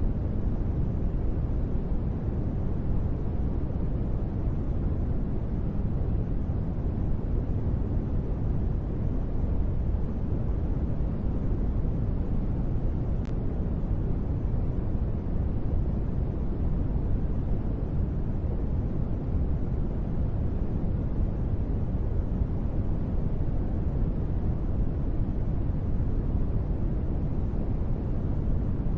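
Steady, muffled white noise billed as gentle rain, heavy in the low end, with no separate drops and no changes in level.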